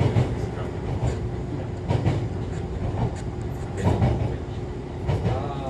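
Running noise inside an Echizen Railway MC6101-series electric railcar: a steady rumble with a faint constant hum, and wheels clacking over rail joints about five times at uneven intervals.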